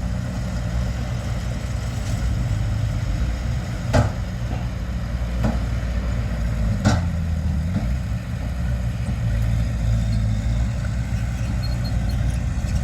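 Heavy diesel earthmoving machinery running steadily at a low, even engine note, with a few sharp metallic clanks, two of them louder, about three seconds apart.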